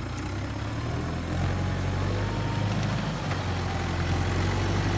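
Tractor diesel engine running steadily, getting a little louder about a second and a half in.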